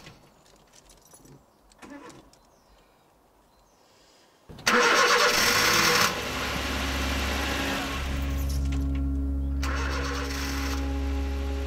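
Near quiet for about four seconds, then a Volkswagen Polo hatchback's engine cranks on the starter for about a second and a half, catches, and settles into a steady idle.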